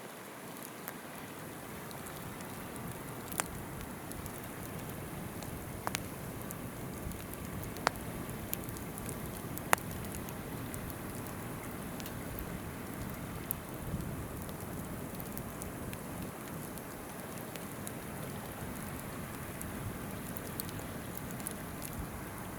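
Wood campfire crackling, with sharp pops every few seconds, over the steady rush of a flowing river.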